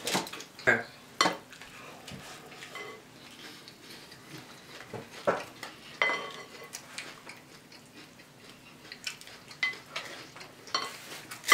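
Spoons clinking and scraping against cereal bowls during eating, in scattered short clicks with an occasional brief ring.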